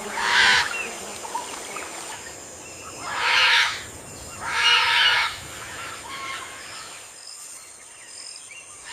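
Three loud, harsh bird calls, each well under a second long: one at the start and two close together about three to five seconds in, over a faint steady background of jungle ambience.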